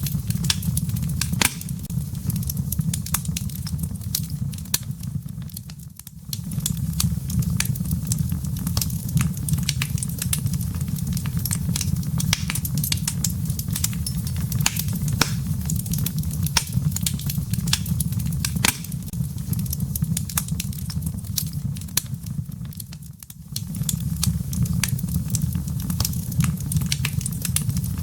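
Wood fire in a fireplace crackling, with frequent sharp pops over a steady low rumble of the burning logs. The sound dips briefly twice, about six seconds in and again near twenty-three seconds.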